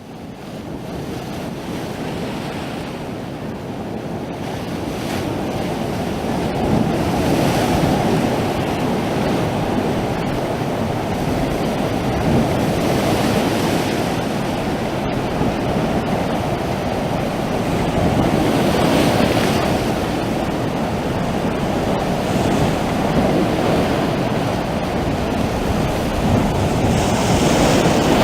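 Sea waves breaking and washing on the shore, a steady surf that swells every four to six seconds.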